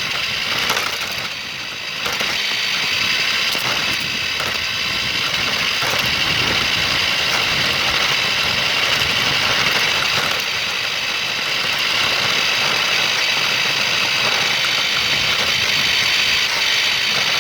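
Remote-control toy car's electric motor and gears whining steadily as it drives, heard from a phone taped onto the car itself. The whine drops briefly about a second in, then holds steady.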